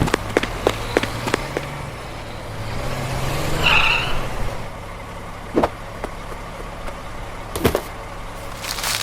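Cartoon sound effect of a vehicle engine running, its pitch rising for a couple of seconds, with a brief tyre squeal about four seconds in. Quick clicks in the first second and a half and two single knocks later on.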